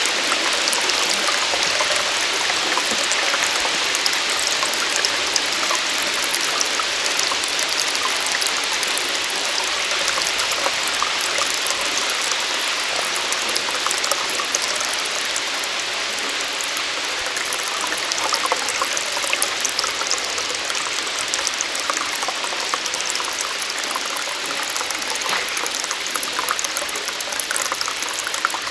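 Small waterfall running steadily: a continuous hiss of falling water with many small splashes and drips, easing slightly near the end.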